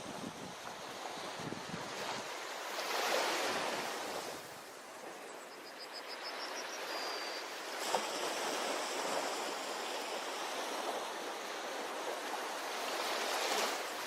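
Ocean waves washing onto a beach, a steady rush of surf that swells about three seconds in and again near the end.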